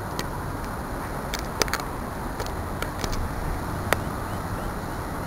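Steady rushing of river water pouring over a low dam, with a few sharp handling clicks.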